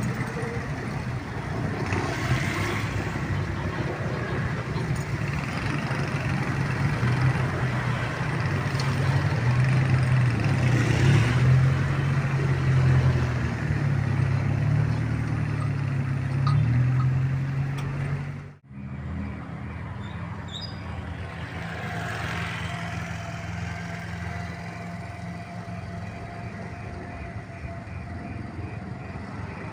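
Motor vehicle engine rumble and traffic noise, building to its loudest about ten to seventeen seconds in. It then cuts off abruptly and is replaced by quieter, steady traffic noise with a faint steady tone.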